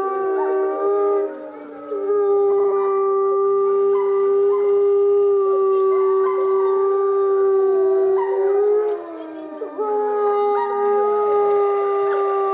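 Several wolves howling together in long, overlapping held howls whose pitch drops at the ends. The chorus dips briefly twice, about a second and a half in and about nine seconds in.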